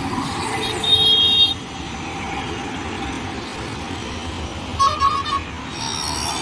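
Road traffic with vehicle horns honking: one loud honk about a second in and a quick string of toots around five seconds in, over a steady traffic noise.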